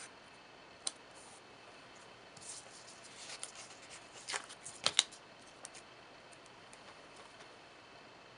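Faint handling of planner sticker sheets: a soft rustle as a washi sticker strip is peeled and placed, then a few sharp clicks around the middle, the loudest of them about five seconds in, among scattered small ticks.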